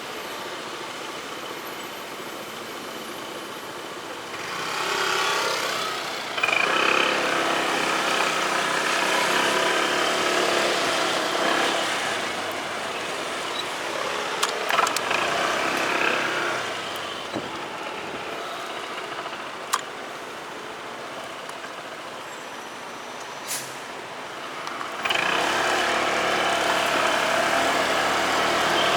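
Motorcycle engine running on the road, getting louder about five seconds in, easing off around the middle, and picking up again near the end.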